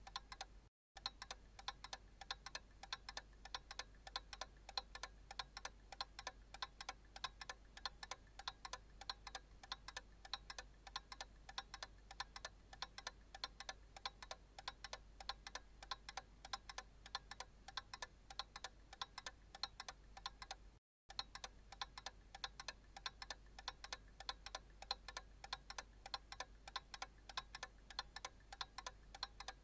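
Analog clock ticking steadily in an even rhythm, over a faint low hum. The sound cuts out completely for an instant twice, once about a second in and once about two-thirds through.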